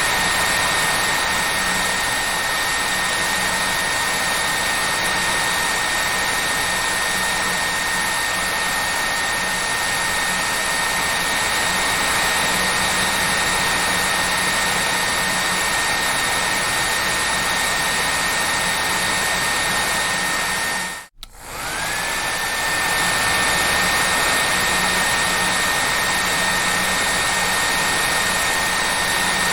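Hair dryer running steadily: a constant rush of blown air with a thin, high motor whine. About two-thirds of the way through it cuts out for about a second, then comes back, the whine rising in pitch as the motor spins up again.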